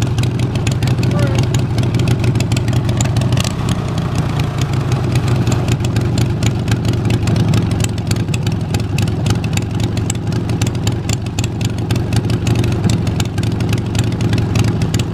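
Harley-Davidson 1200cc Sportster V-twin engine in a homemade pulling tractor, running steadily at a constant speed with a rapid, even pulse.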